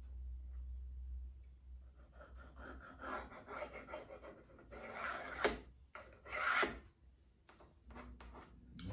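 Scraping strokes of wood being rubbed by hand, with two louder strokes about halfway through; a low hum runs under the first few seconds.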